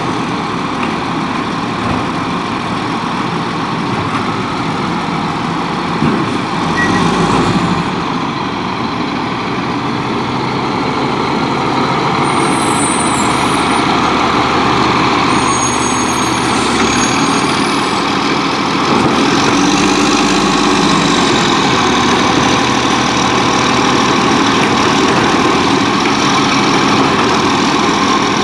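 Volvo WXLL garbage truck with a Labrie Expert 2000 automated side-loader body, its engine running steadily and speeding up twice. There are a few faint high-pitched squeaks around the middle.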